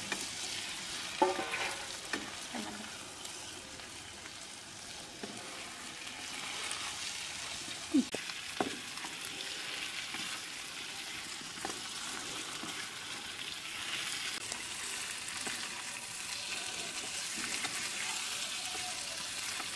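Boiled potato pieces sizzling in spiced masala in a kadhai, stirred with a spoon: a steady frying hiss with a few brief scrapes of the spoon against the pan.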